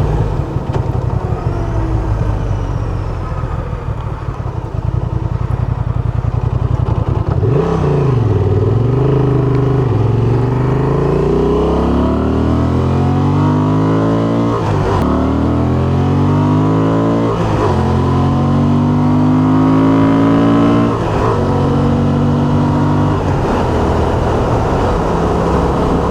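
Van engine running under way. After a steady drone it accelerates, its pitch climbing and then dropping back at each upshift, about three gear changes in the second half.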